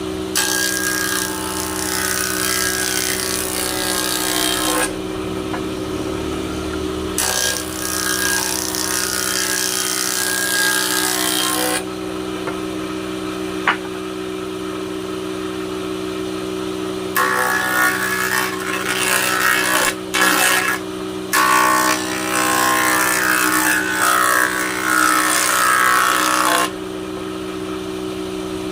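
Woodworking power tool running with a steady hum while it cuts wood in three long passes, the first ending about five seconds in, the second running from about seven to twelve seconds, and the third from about seventeen to twenty-seven seconds. A single sharp click comes between the second and third passes.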